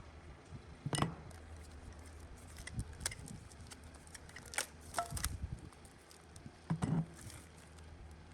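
Workshop hand work: scattered clicks and knocks, with two louder knocks about a second in and near seven seconds, over a faint low hum.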